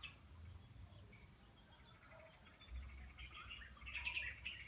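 Faint outdoor ambience of small birds chirping, with the calls coming more often in the second half, over a low rumble.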